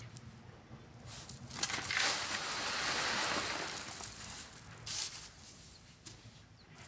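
Sand being shovelled and sifted: a gritty hiss of sand pouring for about three seconds, then a short scrape about five seconds in.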